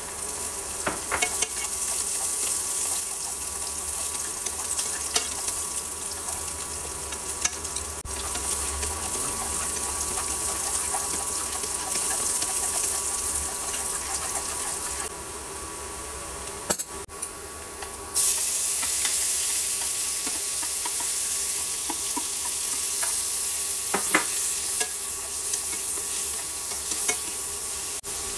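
Sliced shallots and chopped aromatics sizzling in hot oil in a nonstick pan, stirred with wooden chopsticks that tick against the pan now and then. After a quieter stretch about 15 seconds in, the sizzle comes back louder with shrimp and squid frying.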